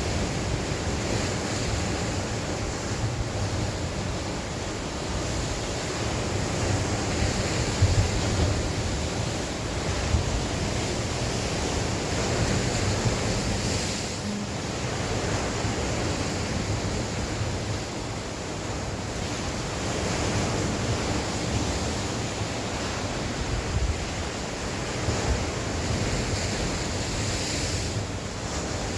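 Sea waves breaking and washing on the shore in steady surf, with wind buffeting the microphone as a low rumble. The loudness swells and falls slowly as the waves come in.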